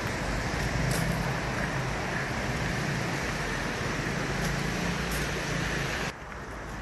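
Steady city street noise, a hiss of road traffic with a low hum underneath, cutting off abruptly about six seconds in.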